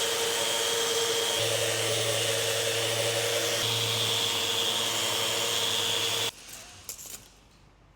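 An electric power tool or dust extractor running steadily with a hissing, vacuum-like sound and a fixed whine, switched off abruptly about six seconds in; a few light knocks follow.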